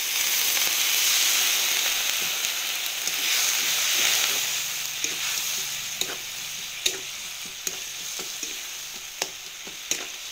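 Frying masala paste of onion, ginger-garlic and poppy seed bursting into a loud sizzle as a little water goes into the hot kadai. The hiss eases after about four seconds into a steadier frying sizzle. A spatula then clicks and scrapes against the pan about once a second as the masala is stirred.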